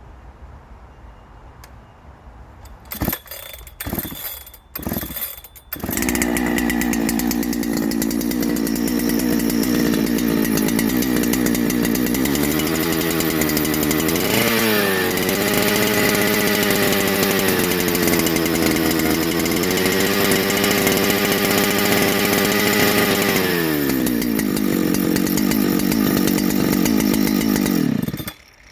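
Ported Husqvarna 3120XP two-stroke chainsaw, run with the bar off. It is pull-started, with a few short bursts before it catches about six seconds in, then runs steadily with a brief rev up and down about halfway through, drops in pitch and shuts off near the end.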